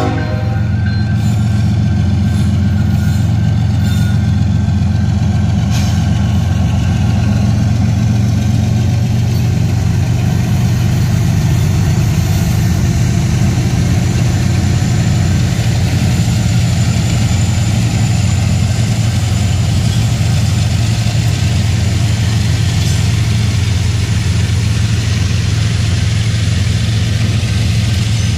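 Freight train passing close by: its diesel locomotives run past with a loud, steady low engine rumble, followed by loaded coal hopper cars rolling on the rails.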